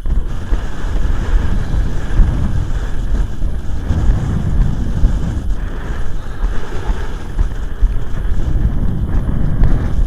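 Wind buffeting the microphone: a loud, steady low rumble with gusty flutter.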